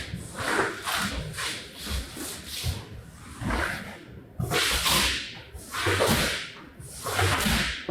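Repeated strokes of a cleaning tool working over a wet, muddy rug: quick short strokes at first, then longer sweeps about once a second.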